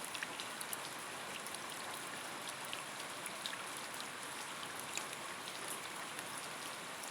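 Steady rain falling, with many separate drop hits heard through it.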